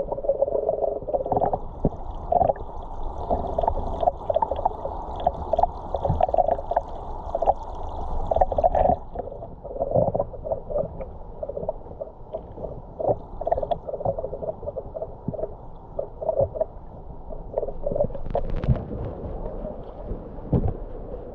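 Muffled river water gurgling, with many small irregular clicks and knocks.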